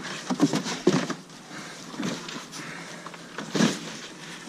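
Cardboard boxes and junk being rummaged through and shifted: scattered rustles and knocks, the strongest about a second in and again past three and a half seconds.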